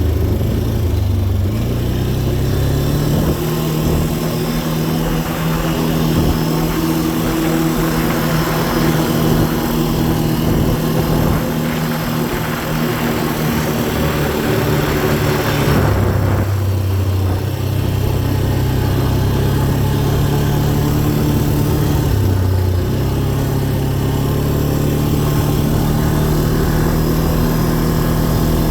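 Dirt bike engine running under way, its pitch stepping up a few seconds in, dropping just past halfway, then rising again about two-thirds through.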